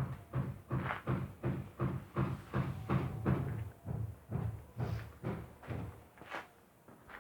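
A steady series of dull thuds, about two to three a second, fading out about six seconds in.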